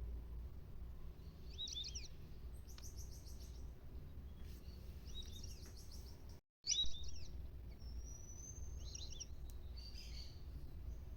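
Wild birds calling: several short bursts of quick, high chirping notes, and one long thin whistle about eight seconds in, over a steady low background rumble. The audio drops out for a moment about six and a half seconds in.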